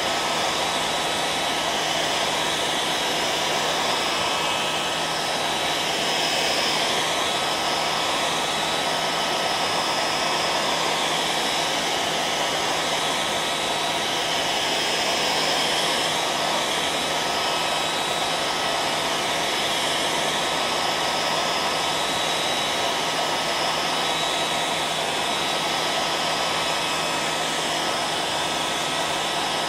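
Hairdryer running steadily: an even rush of blown air with a constant motor whine.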